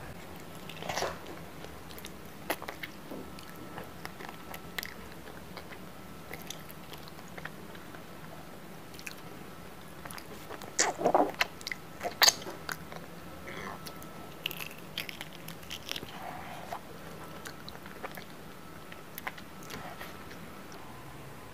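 Biting into and chewing fried chicken, with scattered crunches and clicks of the mouth; the loudest bites come about eleven and twelve seconds in.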